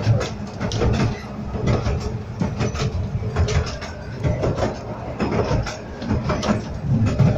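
Miniature steam train carriage in motion: a constant low rumble with irregular clicks and knocks of the wheels running over the track.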